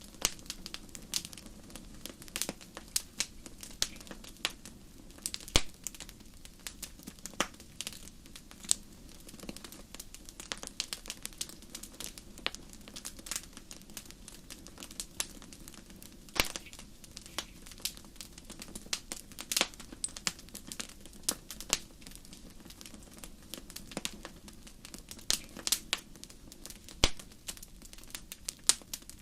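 Wood fire crackling: irregular sharp pops and snaps, some louder than others, over a steady low rush of burning.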